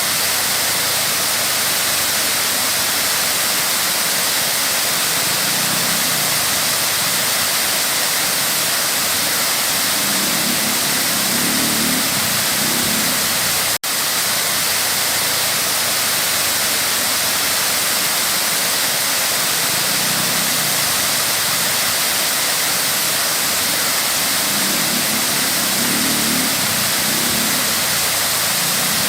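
Waterfall: a steady rushing of falling water, broken once by a momentary dropout about halfway through.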